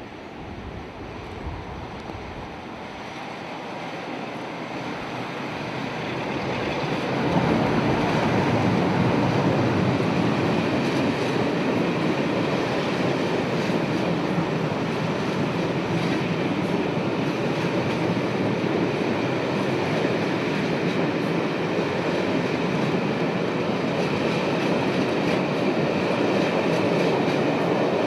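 A passing train hauled by a Class 47 diesel locomotive, growing louder as it approaches over the first several seconds, then a loud, steady rumble of wheels on the rails as it runs past.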